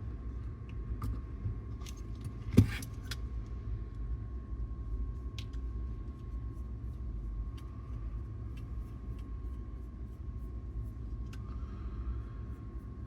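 Small parts of a cassette deck's tape transport being handled while its capstans are cleaned: scattered light clicks and one sharper knock about two and a half seconds in, over a steady low hum and a faint steady high tone.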